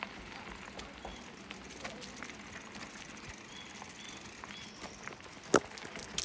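Faint outdoor trail ambience with scattered light ticks and a few short bird chirps, and one sharp knock about five and a half seconds in.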